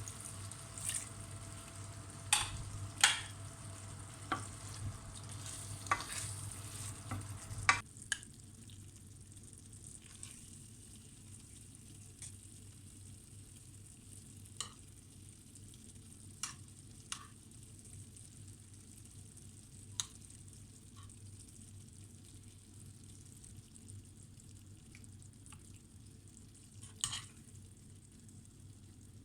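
Food sizzling in a frying pan while being stirred, a utensil clicking and scraping against the pan. About eight seconds in the sizzle cuts off abruptly, and after that only occasional single clicks are heard.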